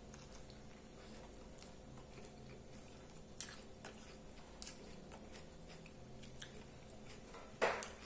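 A person chewing a mouthful of hamburger close to the microphone, with a few sharp wet mouth clicks; the loudest comes just before the end.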